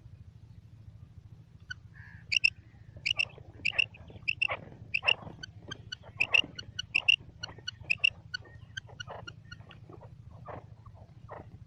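Quail calling: a run of short, sharp, high-pitched call notes, two or three a second, starting about two seconds in and thinning out near the end.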